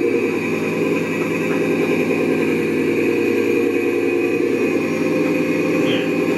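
A small motor running steadily at an even speed, with a constant hum.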